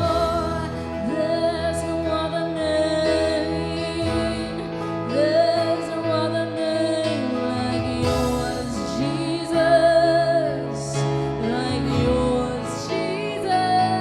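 Slow, tender live worship music: sustained chords with a woman singing long, wavering held notes over them.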